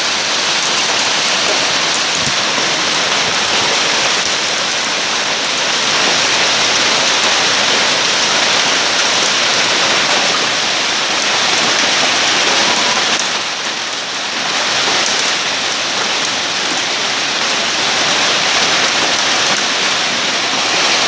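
Hail and heavy rain pelting a roof in a dense, steady hiss. It eases briefly about two-thirds of the way through.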